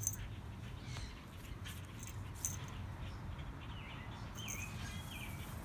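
Outdoor ambience of small birds chirping, with a few short dipping chirps mostly in the second half, over a low steady rumble.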